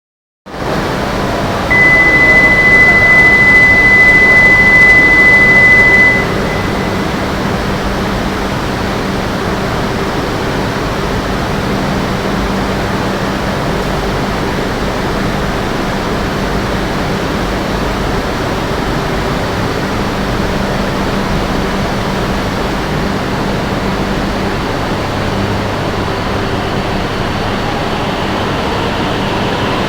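A single steady high electronic tone sounds for about four seconds near the start, the loudest thing here, typical of a platform departure signal. Under it and afterwards, the steady hum and hiss of a Shinkansen platform with an E5 series train standing at it.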